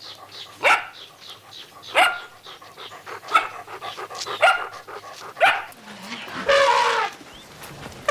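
A dog barking: five short, sharp barks about a second apart, each dropping quickly in pitch, then one longer, drawn-out bark near the end.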